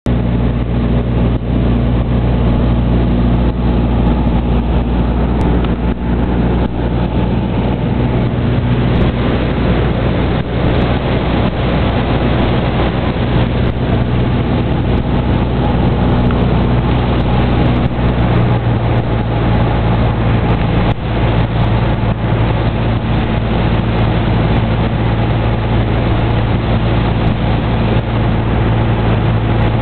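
Airplane engine droning steadily, heard from inside the cabin, with a constant low hum whose pitch shifts slightly a little past halfway.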